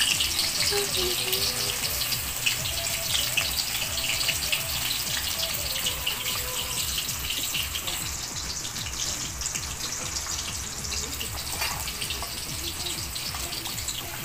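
Sliced red onions frying in hot oil: a steady sizzle full of crackles that eases slightly as it goes on.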